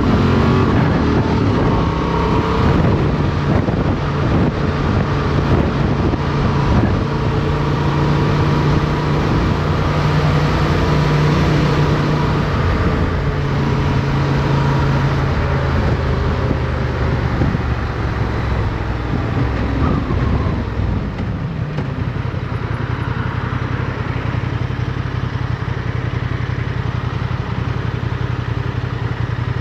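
Motorcycle engine heard from onboard, under way with wind noise. Revs settle just as it begins, hold fairly steady for a long stretch, then dip and climb again about two-thirds of the way through.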